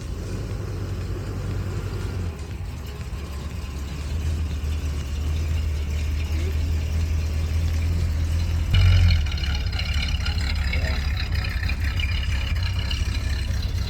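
Engine of a 1988 Chevy C1500 pickup running steadily with a low rumble, shortly after being revived from years of sitting. About nine seconds in there is a brief louder burst, after which a higher whir runs alongside the engine.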